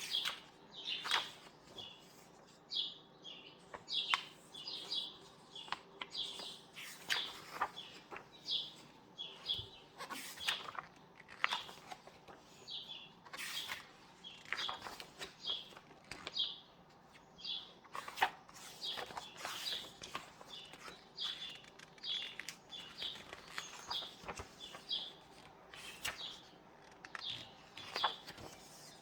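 Paper pages of a book being turned and handled, in short crisp rustles and flicks, while small birds chirp throughout in short high calls.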